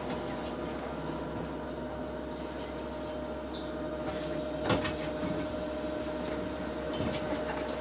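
Steady whine from a bus's hydraulic cooling fan, heard from inside the bus over engine and road noise, with one sharp knock or rattle about halfway through.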